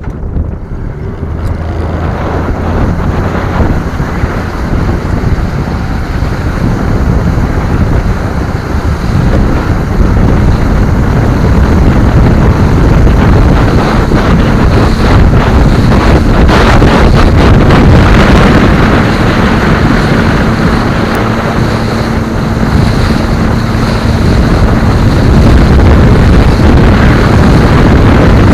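Strong wind buffeting the microphone aboard a pontoon boat, with water noise and, from about halfway in, a steady motor hum. The rumble builds through the first several seconds.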